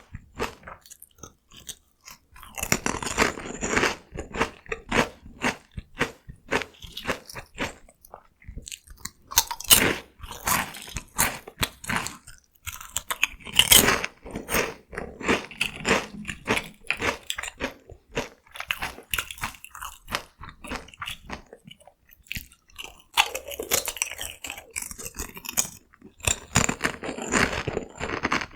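Close-miked crunching and chewing of Kkokkal Corn, crispy cone-shaped Korean corn snacks, in quick crackling runs of bites, with two brief pauses.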